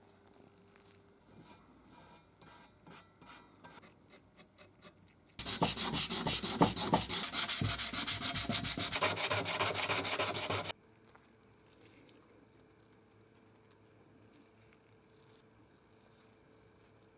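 Hand rubbing strokes worked back and forth over a surface. They start slow and soft, then become a loud, fast run of about eight strokes a second that cuts off suddenly.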